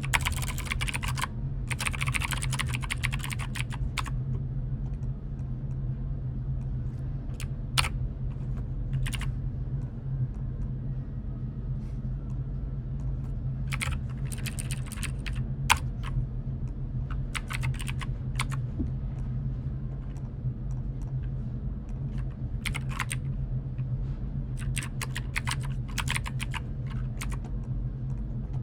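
Typing on a computer keyboard in short bursts of rapid key clicks with pauses between, and a few single key taps, over a steady low hum.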